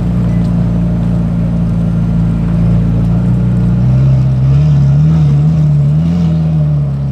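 Car engine idling with a loud, steady low drone; around the middle its pitch wavers up and down for about two seconds, then settles back to idle.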